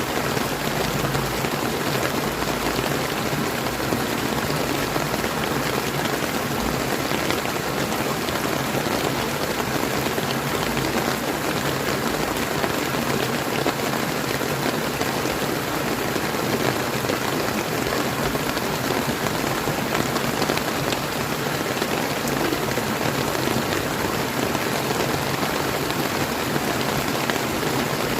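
Steady rain falling, blended with the rush of a clear flowing river, an even and unbroken wash of water noise.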